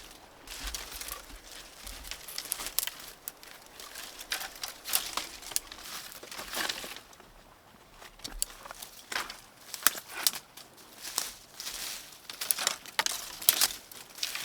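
Dry forest litter, leaves and twigs, crackling and rustling in irregular bursts, with a short lull about seven seconds in.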